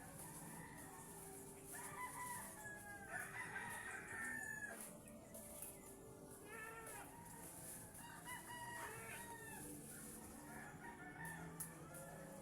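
Birds calling, with many short pitched calls overlapping one another throughout.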